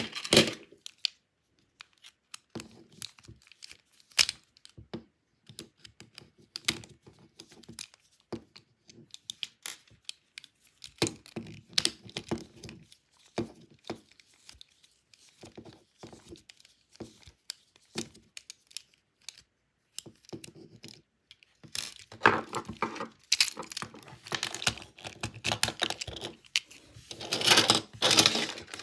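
A plastic Thomas toy train being handled: scattered light clicks and knocks, then a louder stretch of rattling and scraping near the end.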